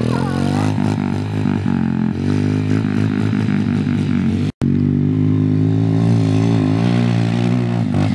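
Small pit bike engine running under throttle as the bike takes off, its pitch shifting a little as the gas is worked. The sound cuts out for an instant about halfway through, then the engine carries on steadily.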